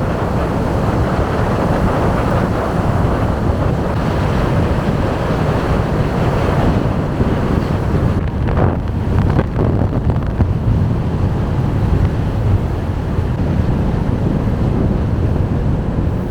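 Wind buffeting the microphone in a steady low rumble, with a couple of brief gusts about halfway through.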